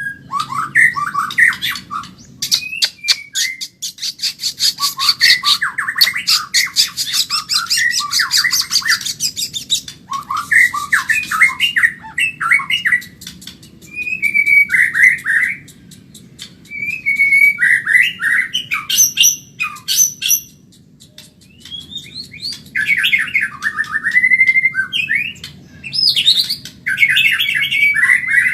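White-rumped shama (Medan-type murai batu) singing a fast, varied song: whistled phrases mixed with rapid rattling chatter, in bursts with short pauses between them.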